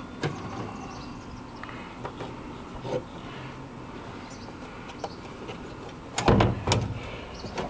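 Light metallic clicks and rattles from hand work on a van's rear door latch, then two loud knocks in quick succession a little over six seconds in.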